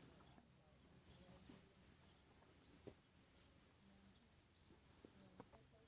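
Near silence with faint, regular insect chirping, about three short high chirps a second.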